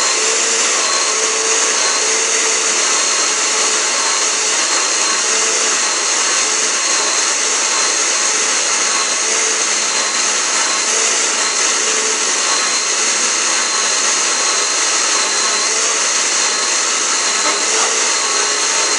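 Electric kitchen blender running steadily, its motor whirring as it blends banana, mango, milk, cream and condensed milk into a thick drink.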